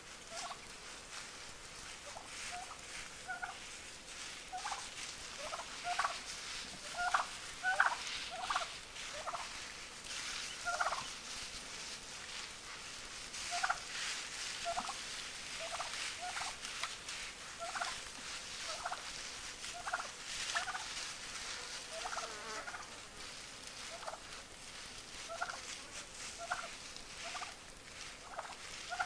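Gould's wild turkeys gobbling and calling, many short notes at irregular intervals.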